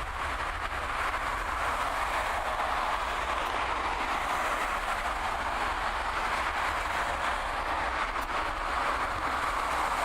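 Airbus A321-131's two IAE V2530 turbofan engines at takeoff power: a steady rushing jet noise with a low rumble beneath, swelling slightly about a second in.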